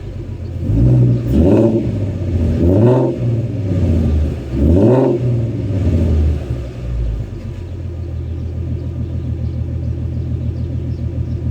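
Ford Mustang 3.7-litre V6 through a custom Magnaflow exhaust, revved three times in quick blips that rise and fall. It then settles into a steady idle from about halfway through.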